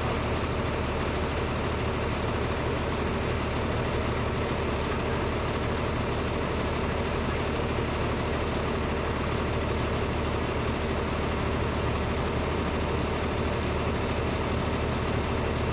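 Diesel engine of a Volkswagen 17.230 EOD city bus running steadily, heard from inside the bus, with a deep hum and no clear revving.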